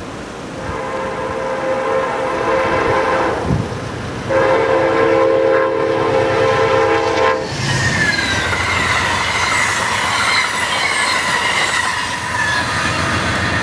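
The horn of an Amtrak GE P32AC-DM locomotive sounds two long blasts as the train approaches. The train then passes close by with a high squeal from its wheels that slowly falls in pitch.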